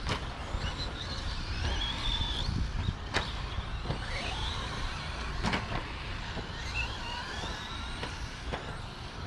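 Radio-controlled stadium trucks racing, their motors whining up and down in pitch as they accelerate and brake, with a few sharp knocks as the trucks land or hit each other.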